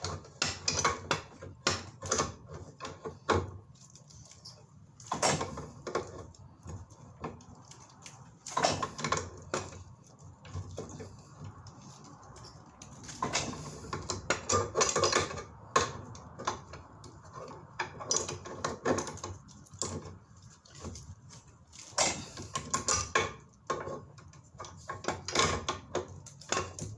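Irregular knocks, clanks and scrapes of metal gas pipe, fittings and tools being handled during the pipe fitting, with a few longer grinding or scraping stretches.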